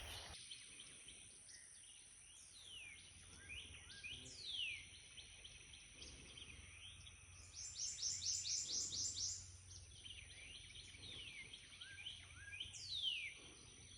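Birds singing: repeated high, downward-sliding whistles, and about eight seconds in a quick run of about ten high notes.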